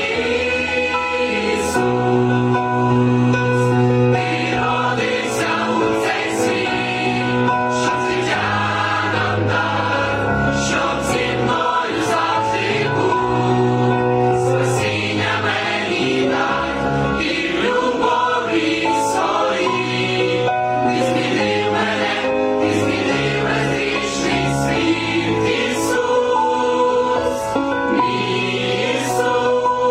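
A choir singing a Ukrainian carol, sustained chords moving every second or two.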